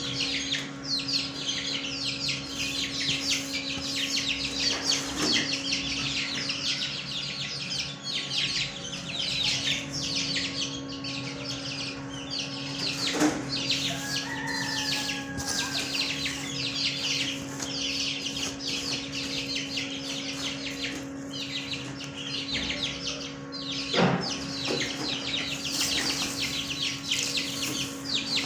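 Many small cage birds chirping and chattering nonstop in a dense chorus. A steady low hum runs underneath, and there are a few brief knocks.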